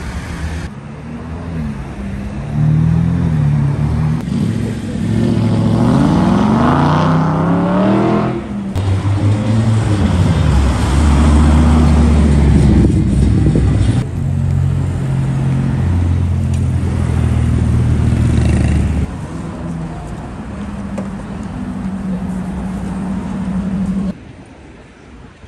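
Supercar engines revving and accelerating on a city street. The engine note climbs steeply from about five to eight seconds in. Then come deep, steady engine notes that change abruptly several times, as from one car to the next.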